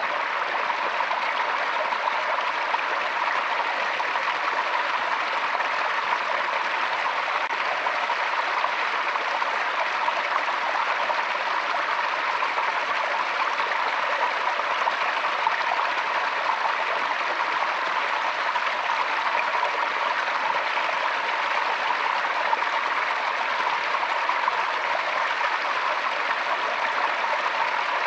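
Forest stream flowing steadily, a constant rushing and splashing of water over stones.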